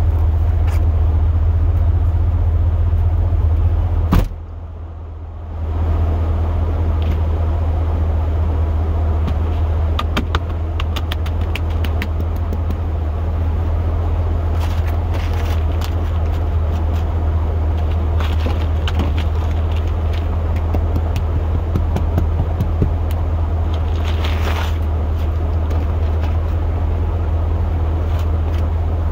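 Plow truck idling with a steady low drone. A sharp knock comes about four seconds in, then scattered clicks and light scraping as ice is cleared off the windshield wiper blades.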